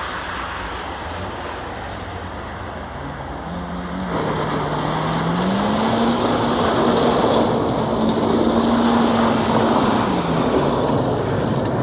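A motor vehicle driving, its engine note over road and tyre noise; the engine climbs in pitch about five seconds in, holds steady, then drops back near the end.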